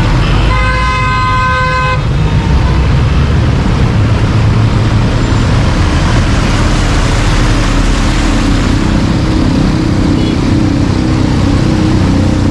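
A vehicle horn blares once for about a second and a half near the start. Under it and after it, engines and loud rushing road noise run steadily through flooded traffic, and a lower steady hum comes in about two-thirds of the way through.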